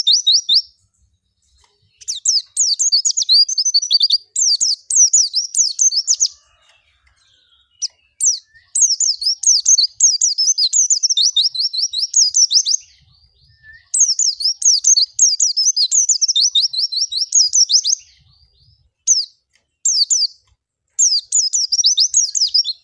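White-eye (pleci) singing: phrases of rapid, high twittering chirps a few seconds long, broken by short pauses.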